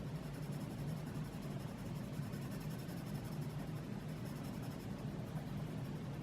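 Colored pencil shading on sketchbook paper: a soft, continuous scratching of the lead over the surface, over a steady low hum.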